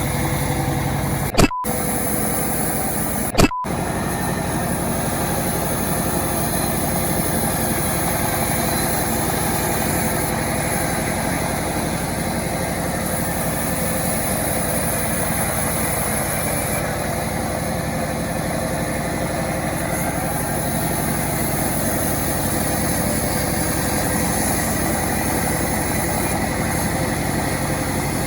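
A self-assembled chainsaw's engine running steadily. Two brief blips come in the first few seconds.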